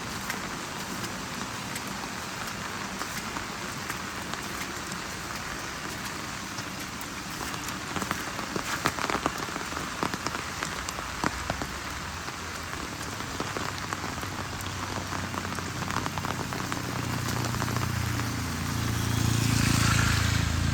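Steady heavy rain falling on surfaces, with a spell of louder, sharper drops in the middle. Near the end a motor vehicle's engine rumble rises and grows loudest just before the close.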